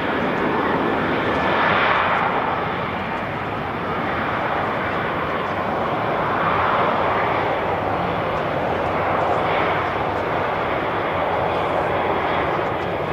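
Airliner engines running close by: a steady, loud engine noise that swells and eases a few times.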